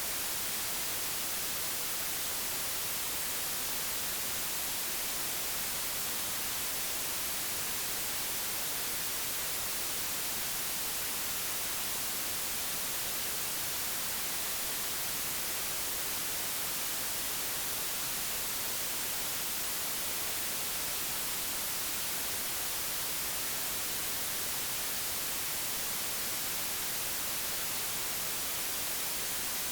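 Steady digitally generated white noise: an even, unchanging hiss, brightest in the high frequencies.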